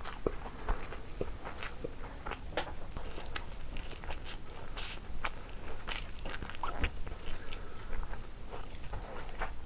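Close-miked eating: a person biting and chewing food with mouth sounds, many irregular wet clicks, smacks and small crunches.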